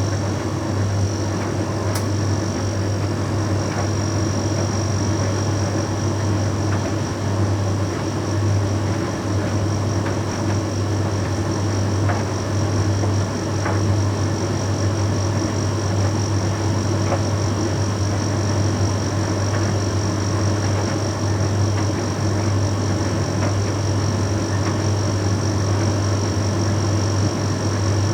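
Bosch Series 6 heat pump tumble dryer running mid-way through a Shirts cycle: a steady low hum with a thin high whine above it, and a few faint ticks.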